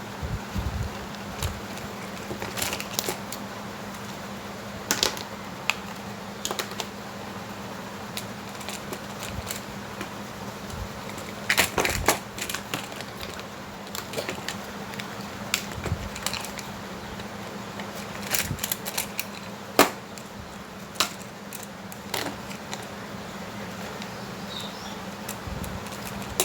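Irregular clicks and taps of tools and small hard parts being handled during repair work, over a steady low hum.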